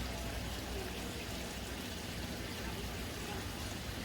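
Steady, even water noise with no distinct knocks or splashes.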